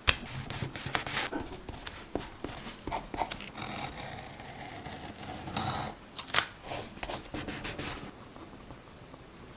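Desk crafting sounds of journal collage: paper and tape being handled, with a string of sharp clicks, snips and short scrapes, the loudest a little after six seconds, dying down near the end.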